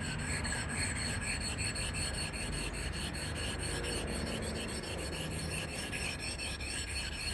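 Sharpening stone rubbed in quick, even back-and-forth strokes, dry, with a gritty scraping on each stroke.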